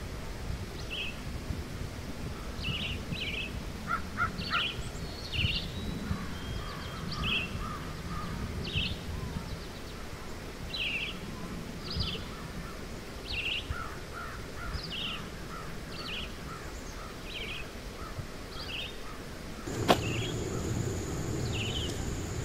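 Birds calling: a short high call repeated about once a second, with softer lower chirps in between, over a low outdoor rumble. A single sharp knock comes near the end, followed by a steady high tone.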